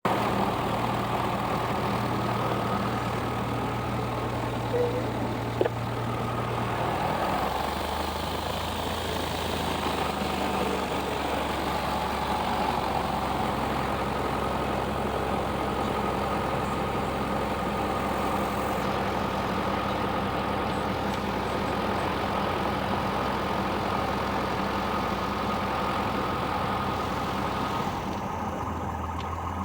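Cessna 172's piston engine and propeller running steadily, heard from the cabin, with the engine tone shifting down about 7 seconds in and the sound going duller near the end.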